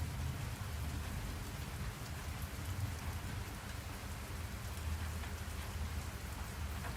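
Steady rain falling, a continuous hiss of drops with a low rumble underneath.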